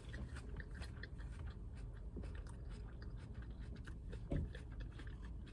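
Someone chewing salad: many small crunching, crackling mouth sounds over a low steady hum, with one dull thump about four seconds in.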